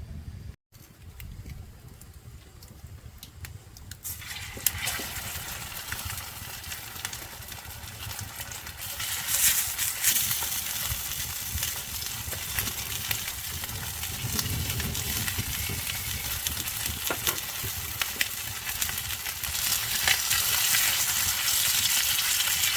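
Cakes frying in oil in a pan, sizzling. The sizzle comes in about four seconds in and grows louder twice after that, with small crackles and pops.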